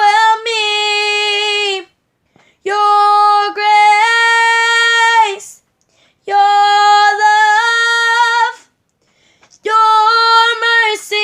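A young woman singing unaccompanied: four long held phrases, each a couple of seconds, with short breaths between them.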